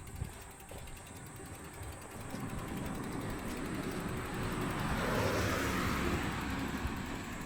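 A car passing by on the road, growing louder to a peak about five to six seconds in, then fading.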